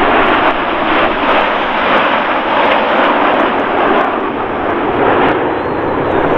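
BAE Hawk T1 jet engines passing in formation: a loud, steady rushing roar that swells and eases a little without a break.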